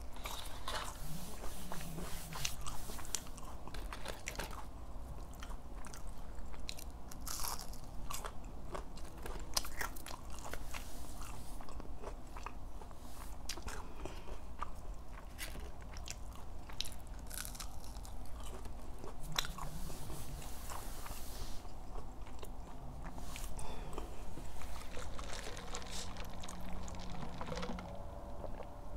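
Close-up crunching, biting and chewing of fried chicken nuggets and french fries, a dense run of crisp little clicks with wet mouth sounds.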